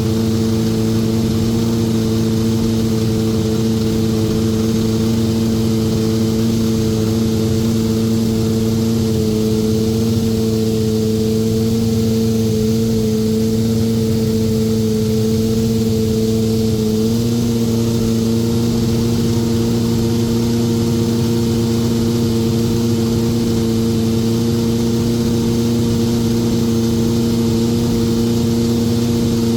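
Williams FW29 Formula 1 car's engine running steadily on the warm-up, a constant high-pitched drone that steps slightly up in pitch about halfway through.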